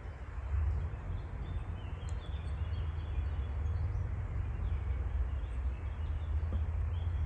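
Outdoor forest ambience: faint, scattered bird chirps over a steady low rumble on the phone's microphone.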